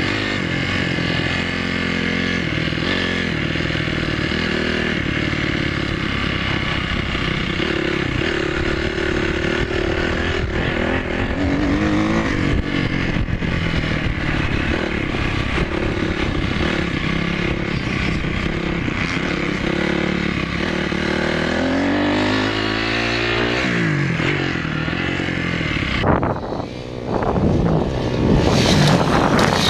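Motocross dirt bike engines running and revving, their pitch climbing and dropping with the throttle and gear changes. About 26 seconds in the sound changes abruptly to quick, steep revs up and down.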